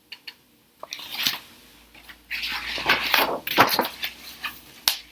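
Rustling and scratchy handling noise with a few light clicks, as of a paperback picture book's pages being turned.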